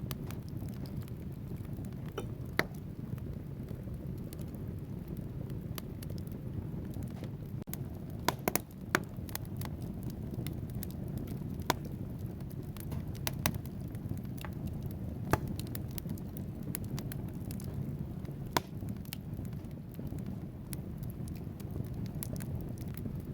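Wood fire burning in a fireplace: a steady low rush of flames with irregular sharp crackles and pops from the logs, a few standing out louder.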